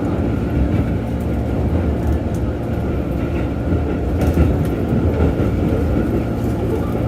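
Keikyu 1500 series electric train running, heard from inside the car: a steady rumble of wheels on rail with a constant whine from the field-chopper traction equipment.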